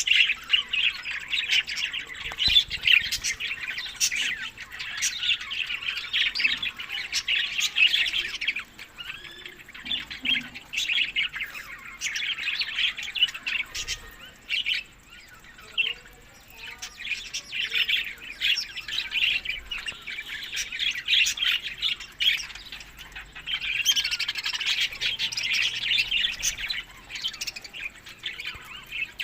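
Budgerigars chattering: a dense stream of short, high chirps and warbles from several birds, thinning out for a few seconds around the middle before picking up again near the end.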